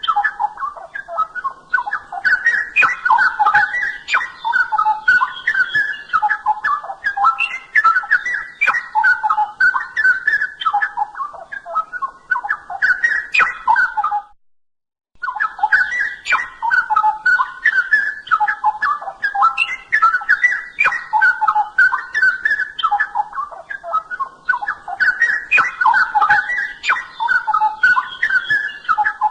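Straw-headed bulbul (cucak rowo) singing steadily: a rapid, continuous run of mellow warbled phrases, with fainter higher chirps mixed in. The song breaks off for under a second about halfway through.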